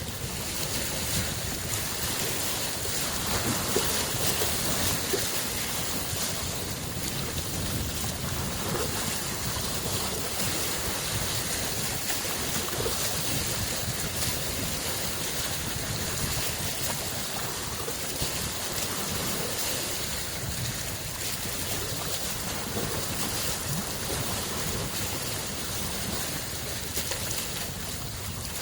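Small lake waves lapping and washing against the shore, a steady noisy wash that swells and eases slightly every few seconds, with some wind on the microphone.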